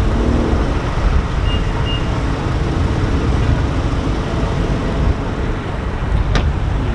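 Car on the move: a steady loud rumble of engine and road noise, with two short high beeps about one and a half seconds in and a sharp click near the end.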